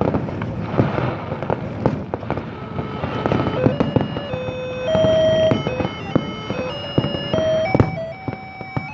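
Fireworks popping and crackling in a rapid, irregular stream of sharp bangs. From about three seconds in, a string of held tones steps up and down in pitch like a simple tune over the crackle.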